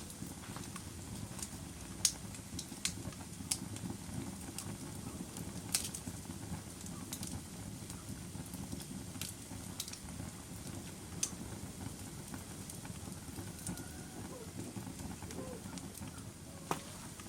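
Log fire crackling in a fireplace: a steady low rustle of burning with scattered sharp pops and snaps, the loudest about two seconds in.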